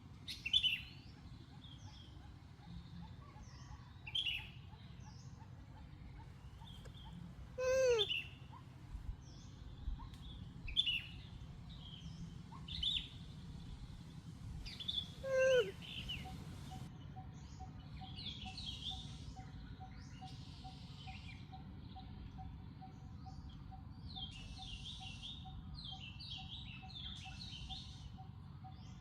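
Birds chirping repeatedly in short high calls, with two long calls falling steeply in pitch about a quarter and a half of the way through. From about halfway a steady rapid pulsing tone joins in, over a constant low background hum.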